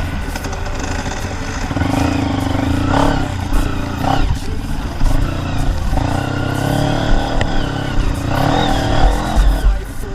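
Dirt bike engine running and revving up and down, with frequent knocks and clatter and a few heavy low thumps near the end.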